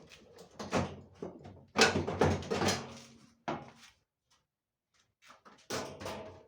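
Knocking and clattering of tumble dryer parts being handled during a repair, in uneven bursts, loudest about two seconds in with a short clatter again near the end.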